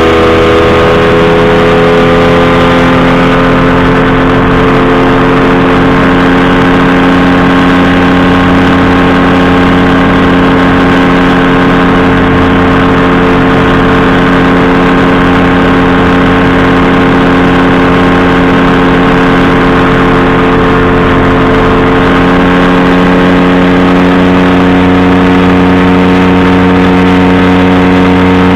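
Powered parachute's engine and propeller running steadily at flying power, loud and close. The engine note drops slightly in the first couple of seconds, then holds an even pitch.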